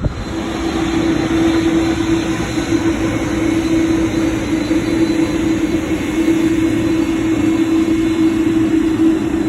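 Jet airliner engines running, a steady rushing noise with a strong low steady hum through it, growing slightly louder over the first second or so.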